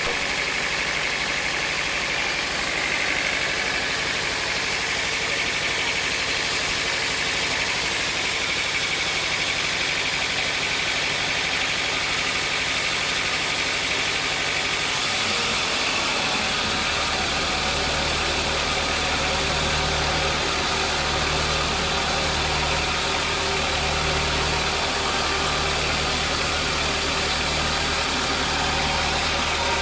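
Sawmill machinery running steadily, a dense mechanical drone with many steady tones; about halfway through a deep low hum comes in and holds.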